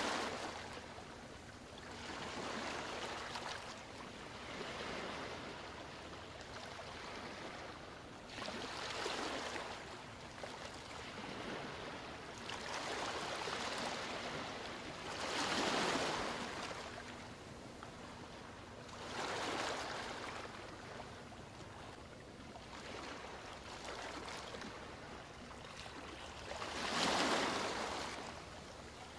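Ocean waves breaking and washing up a beach, the rush of water swelling and fading every few seconds. The biggest surges come about halfway through and near the end.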